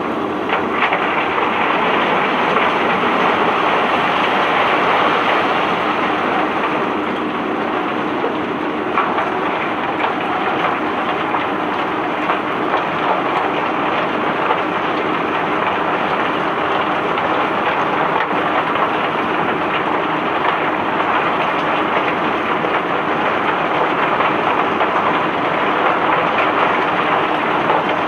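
Cobblestones and gravel tumbling off a barge during unloading: a steady clatter of many small stone impacts that does not let up.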